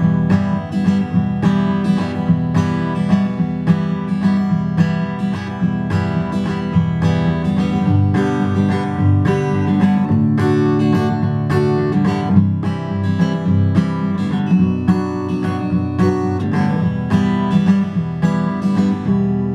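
Acoustic guitar strummed in a steady, even rhythm, playing a chord progression, with the last chord left ringing near the end.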